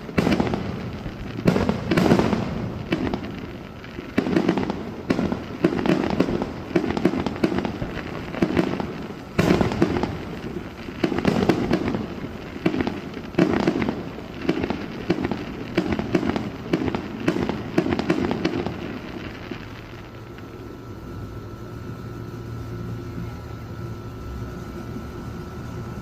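Fireworks display going off in a rapid run of booms and crackling bursts, about one to two a second, which stops about three-quarters of the way in. A steady low hum with a faint held tone follows.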